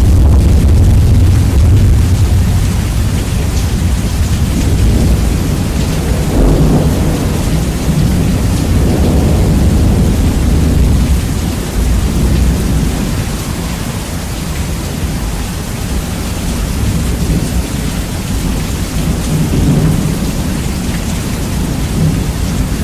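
Rain falling steadily with rolling thunder, heavily bass boosted so that a loud low rumble dominates; the rumble eases a little about halfway through.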